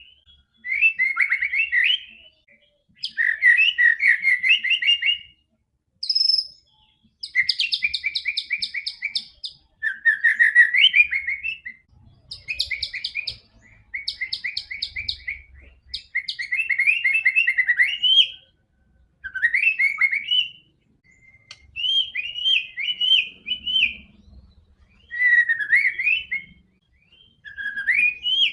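White-rumped shama singing in full song. It sings a series of short, varied phrases of a second or two each, with brief pauses between them. Some phrases are quick runs of repeated notes.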